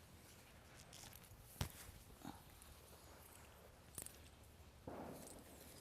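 Near silence, broken by a faint sharp click about a second and a half in, a couple of softer ticks, and a short soft rustle near the end.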